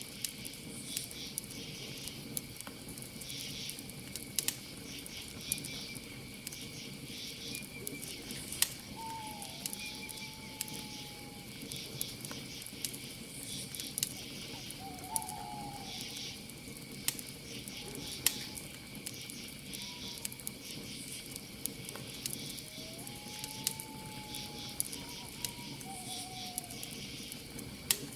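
Campfire crackling with irregular sharp pops over a steady chirping of crickets. An owl hoots three times, in the first half and near the end, each call a short sliding tone.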